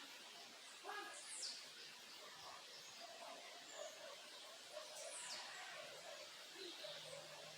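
Backyard birds chirping and calling faintly, with two quick high calls sweeping downward about a second in and about five seconds in, over a steady background hiss.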